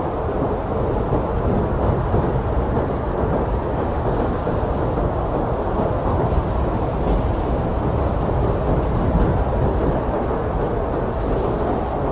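Strong blizzard wind blowing steadily as a deep, rumbling rush that swells gently and never lets up.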